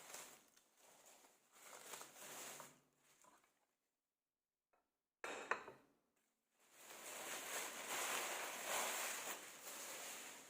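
Kitchen sounds in short clips that cut off abruptly: a light clatter, a sharp knock about five seconds in, then a steady hiss that swells and fades over several seconds.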